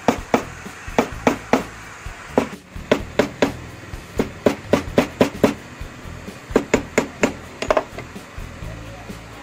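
Small hand hammer striking steel wire on a steel block: sharp metal strikes, about three a second in runs with short pauses. The wire is being hammered cold, without heating, to flatten and shape fishing-hook points.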